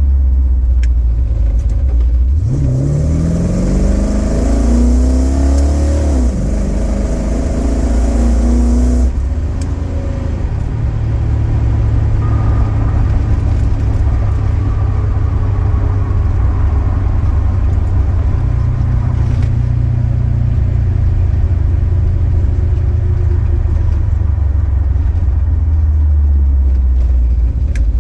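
1969 Chrysler New Yorker's 400 V8, exhausting through Dynamax Ultraflow mufflers, accelerating hard through the lockup 727 automatic: the engine note climbs steeply about two seconds in and holds high for a few seconds. Near nine seconds it drops back to a steady low cruising drone.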